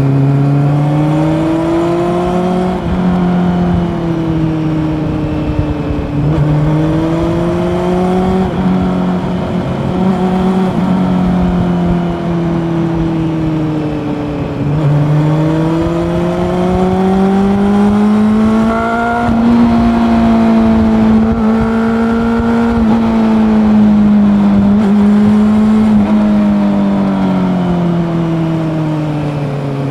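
Honda CB400 Super Four's inline-four engine under way, its pitch rising and falling repeatedly as the throttle is worked through the bends, with a long climb in revs near the middle and a fall back toward the end.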